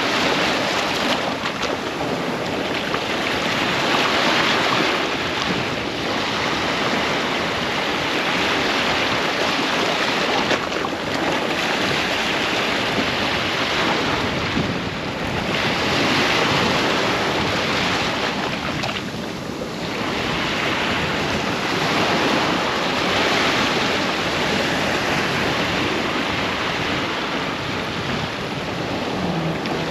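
Ocean waves breaking on a sandy beach, a continuous surf wash that swells and eases every few seconds, with wind buffeting the microphone.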